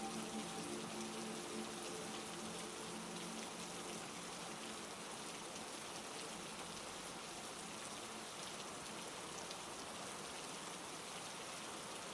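Steady heavy rain, an even hiss of drops on surfaces. A few sustained low tones fade out in the first few seconds.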